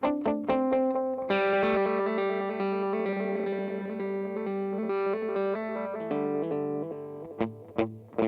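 Siam Custom electric guitar played through a DemonFX reverb and delay pedal. Quick picked notes give way, about a second in, to a struck chord that rings on and slowly fades in a long reverb wash. Picked notes start again near the end, over a low steady note.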